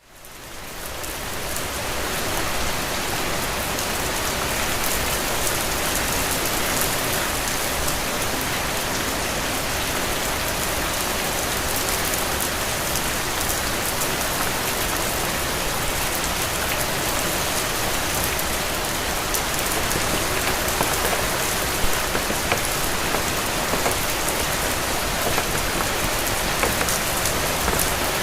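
Steady rain falling, an even hiss with scattered drop ticks. It fades in from a brief silence at the start over about two seconds.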